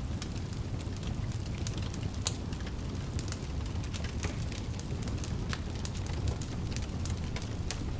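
Wood fire crackling in a fireplace: a steady low rumble of flames under frequent sharp, irregular pops and snaps.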